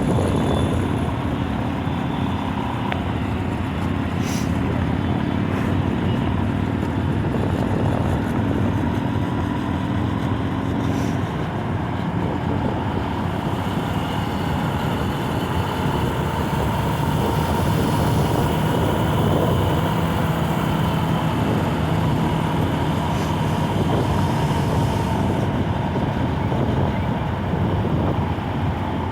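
Race truck's diesel engine running steadily on track, a continuous drone whose pitch drifts down and up slowly with no breaks.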